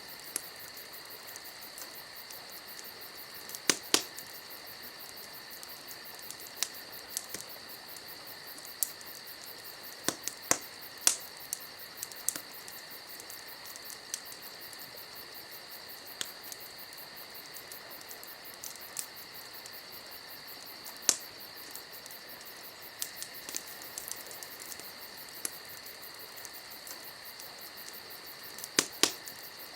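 Wood fire crackling, with irregular sharp pops scattered through it. The loudest pops come about four seconds in, around eleven and twenty-one seconds, and a cluster near the end. A steady high-pitched trill runs underneath the whole time.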